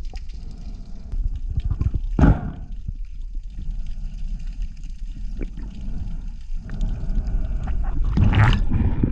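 Underwater water noise heard through the camera housing: a low rumbling wash with two gurgling bursts, about two seconds in and again near the end.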